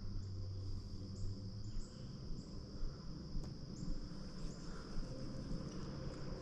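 Insects, crickets by their sound, trilling steadily at a high pitch, with scattered short, higher chirps over a low rumble.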